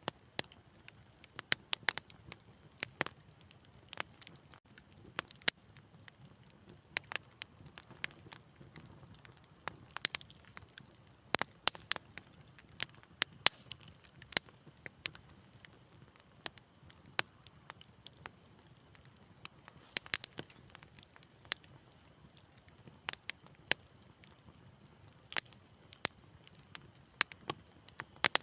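Wood fire crackling: sharp pops and snaps at irregular intervals, several a second, over a faint low hiss of the burning logs.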